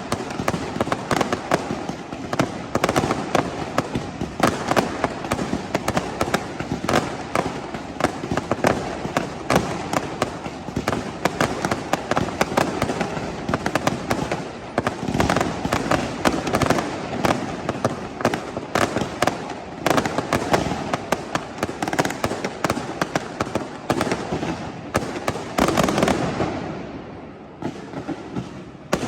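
Fireworks going off in a dense, continuous barrage of rapid bangs and cracks, thinning out briefly near the end.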